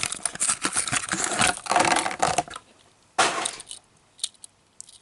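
Plastic blister packaging of a die-cast toy car being cracked and torn open: a dense run of crackling for about two and a half seconds, then a short crunch a little after three seconds and a few single clicks.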